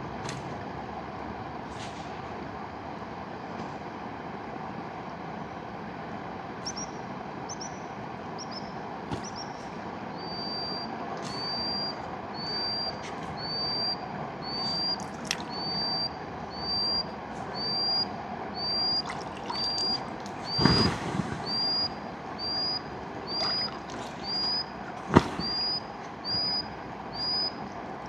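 Steady rushing of a mountain river, with a bird repeating one short, high whistled note a little under once a second from about a quarter of the way in. A few sharp cracks stand out near the end, the loudest about 25 seconds in.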